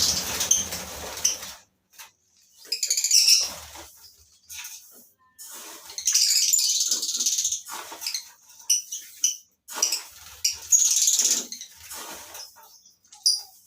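A flock of lovebirds calling with shrill chirps in irregular, repeated bursts.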